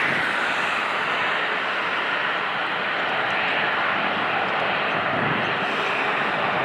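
Boeing 787-9 Dreamliner with GEnx-1B engines on approach to land, a steady jet rush with no rise or fall.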